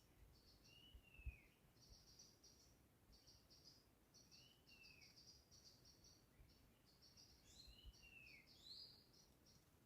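Forest birds calling: clusters of short, high chirps repeat throughout, and a clear down-slurred whistle comes three times. A soft low thump comes a little over a second in.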